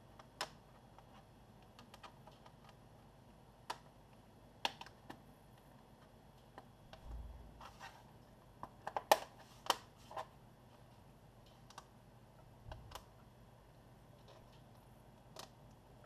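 Acer Aspire E1-571G laptop's plastic cover panels being fitted back on by hand: irregular sharp clicks and taps, with a quick run of louder clicks about nine seconds in and a couple of soft low thumps.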